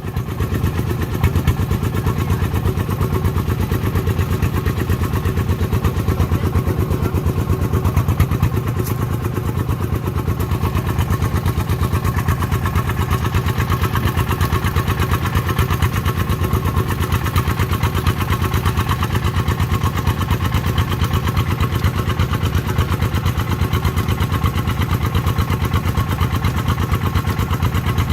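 Farm-vehicle diesel engine running steadily with a fast, even beat, getting slightly louder right at the start.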